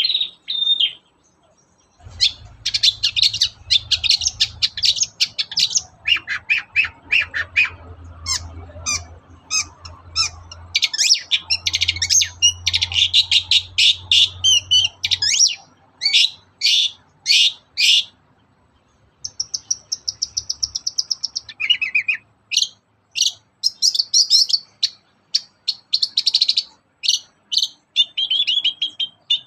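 Long-tailed shrike singing: fast runs of sharp, high chips alternating with dense, scratchy chatter, broken by a couple of short pauses.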